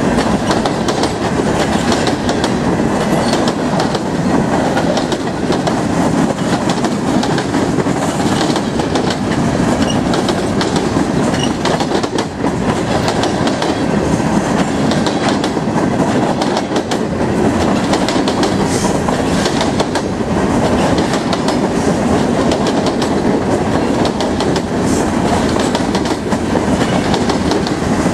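Boxcars of a Canadian National freight train rolling past close by: a steady rumble of steel wheels on the rails with continual clicking and clatter.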